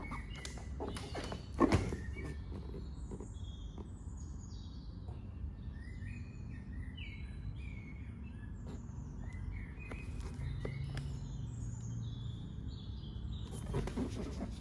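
Small birds chirping and tweeting again and again over a steady low background rumble, with one sharp thump about two seconds in and a few softer knocks near the end from a cardboard box being handled and opened.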